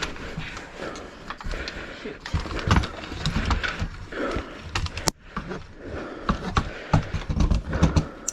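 Irregular clattering knocks, clicks and scraping of animal-control catch poles being handled, their poles tangled together.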